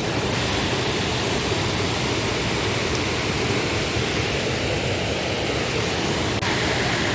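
Steady rush of a large waterfall, Burney Falls, an even noise with no breaks.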